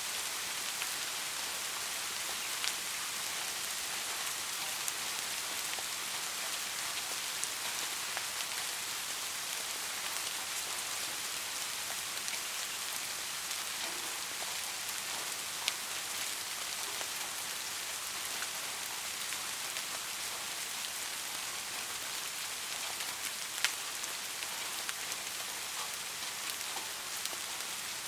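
Steady rain falling, a constant even hiss with scattered individual drops landing closer, a few of them louder, about midway and near the end.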